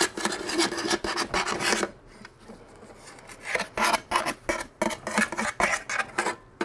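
Packing being pushed and tamped down inside a motorcycle muffler with a flat steel tool: quick scraping and rubbing strokes, which ease off about two seconds in and pick up again a second or so later.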